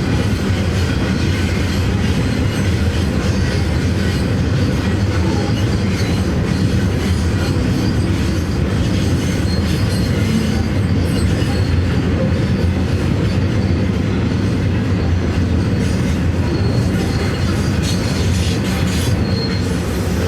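Loaded coal train passing: a steady, unbroken rolling rumble of heavy wheels on rail.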